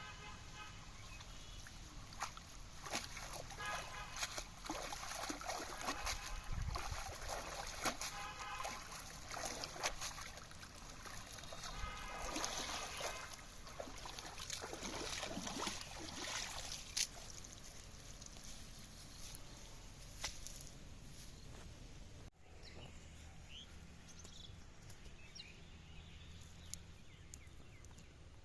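Water splashing and sloshing, with scattered sharp clicks and knocks, busiest in the first two thirds and quieter after an abrupt change near the end.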